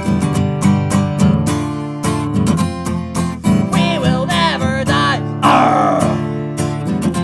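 Acoustic guitar strumming a steady rhythm in an upbeat folk song. About four seconds in, a wavering, sliding melody line comes over it for a second or so, followed by a short noisy burst.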